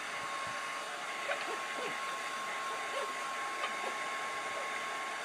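Hair dryer running steadily: an even blowing hiss with a steady whine on top.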